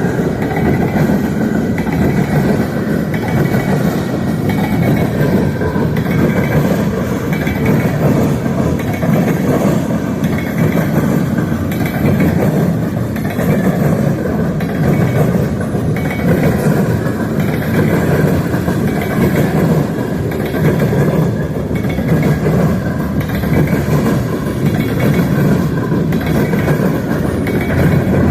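Freight train rolling past, a loud, steady rumble of its cars on the rails.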